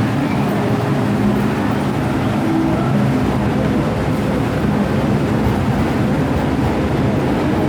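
MTR Tsuen Wan Line M-Train electric multiple unit running, a steady rumble with a low hum.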